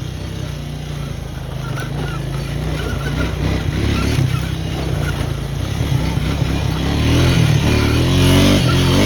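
Four-wheeler (ATV) engine running as it is ridden along a trail. The engine note and loudness climb as it revs up near the end.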